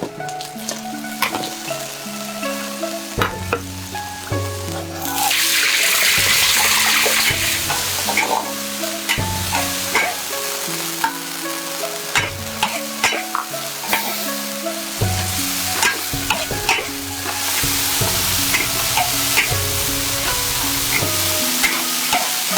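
Food sizzling as it fries in a pan, with a utensil clicking and scraping as it is stirred; the sizzle gets louder about five seconds in. Instrumental music plays underneath.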